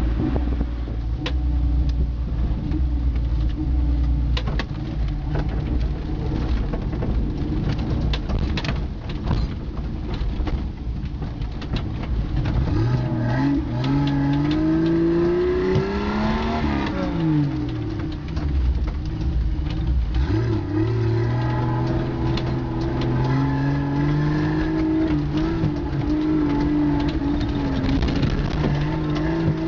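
Car engine heard from inside the cabin while driving off-road, revving up through the gears: its pitch climbs, falls away sharply about halfway through, then climbs steadily again. Frequent knocks and rattles from the vehicle jolting over the rough track run through it.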